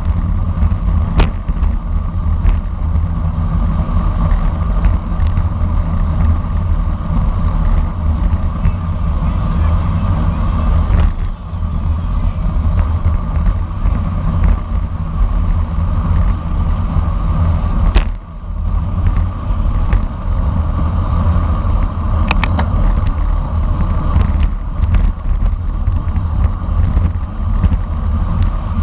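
Wind rushing over the microphone of a camera on a racing bicycle at speed, with tyre and road noise: a loud steady rumble with a few sharp clicks and knocks along the way.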